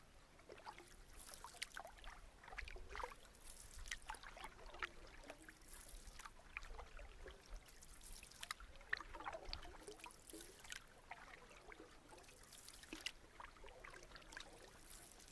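Faint canoe paddling: soft, irregular paddle splashes with water dripping and trickling off the paddle blade.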